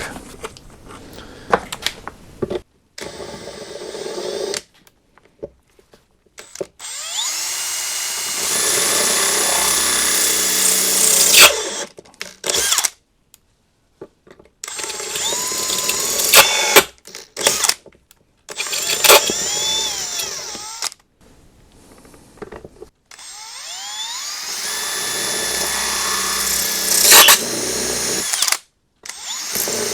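Power drill running in several bursts of a few seconds each, winding up with a rising whine at the start of each, with short stops between, working the valve cover's coil bolt holes.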